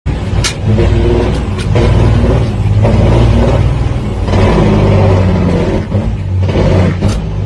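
Semi truck's diesel engine running with a steady low drone that dips and picks up again a few times, with a few sharp clicks over it.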